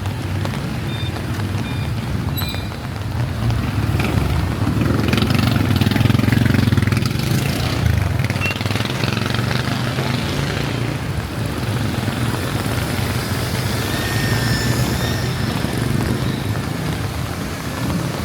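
Motor traffic on a wet street in heavy rain. A vehicle's engine rumble swells as it passes, about four to eight seconds in, over the steady hiss of rain.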